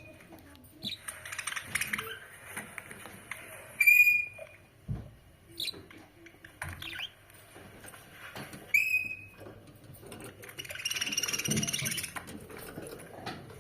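Budgerigars chirping and chattering. Sharp, short whistled calls stand out about four and nine seconds in, and a longer spell of busy warbling chatter comes near the end.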